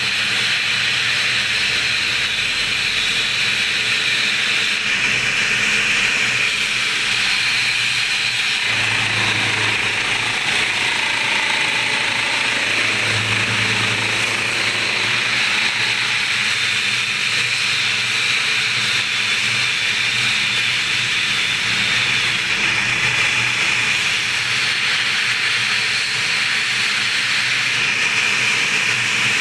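Steady abrasive hiss of a Yamaha V80 engine block's face being resurfaced, continuous with no breaks.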